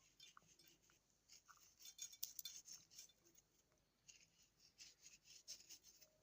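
Near silence, with faint scattered small clicks and light rubbing, like quiet handling sounds.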